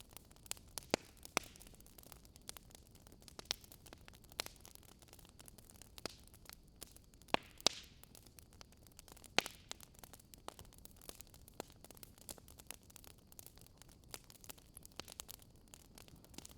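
Wood fire crackling in a fireplace: irregular sharp pops and snaps over a faint steady hiss, with a few louder snaps around the middle.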